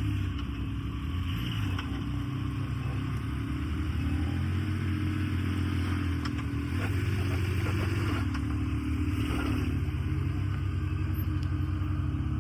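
A vehicle engine running steadily at idle, a low hum with a few light knocks and clatter over it.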